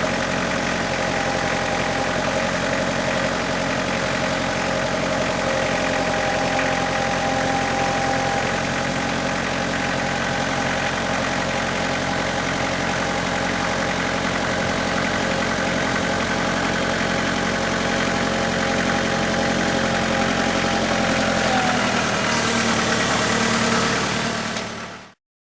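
Tractor engine running steadily; its note changes about 22 seconds in, and the sound cuts off suddenly near the end.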